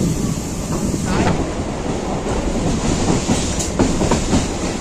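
Electric local train (EMU) running, heard from inside the coach: a steady rumble of wheels on track, with sharper clicks and knocks over the rail joints about a second in and again near the end.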